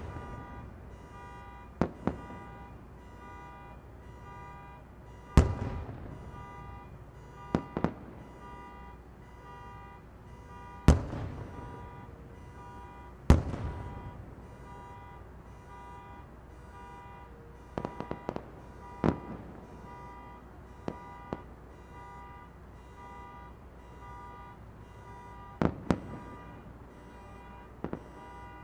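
Distant fireworks shells bursting: sharp booms a few seconds apart, the loudest about five, eleven and thirteen seconds in, with smaller pops between them. A steady pitched tone sounds underneath throughout.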